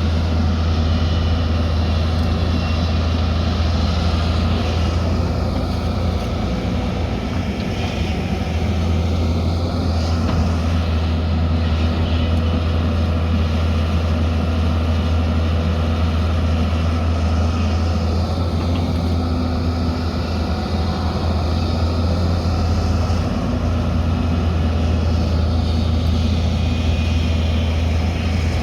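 Diesel engine of a heavy earthmoving machine running steadily under work, a deep, even drone that barely changes.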